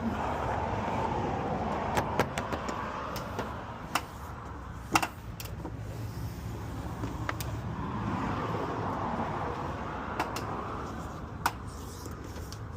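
Two vehicles passing by, each a rushing sound that swells and fades over a few seconds, with scattered sharp clicks and taps in between.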